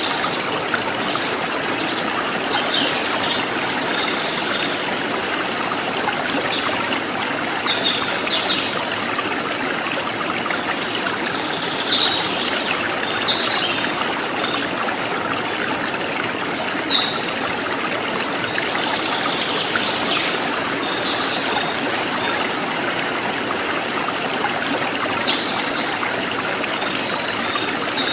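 Water trickling and gurgling steadily over rocks in a small stream, with wild birds calling over it in short, repeated high chirps and trills.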